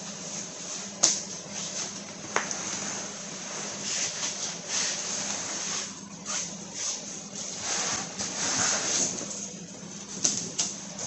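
Cardboard box and packaging being handled: two sharp knocks about one and two and a half seconds in, then stretches of rustling and scraping, over a steady low hum.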